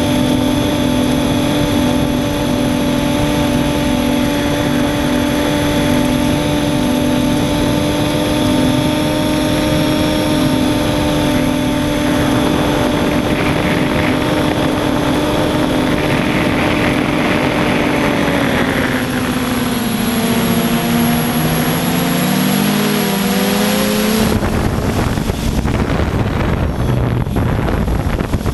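Electric motors and propellers of a radio-controlled quadcopter whining steadily in flight; about two-thirds through, the pitch drops and wavers as the motor speeds change. A few seconds later the whine stops abruptly and a rough rushing noise remains.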